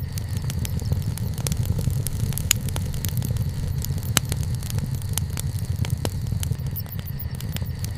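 Wood bonfire crackling, with frequent, irregular sharp pops and snaps over a steady low rumble.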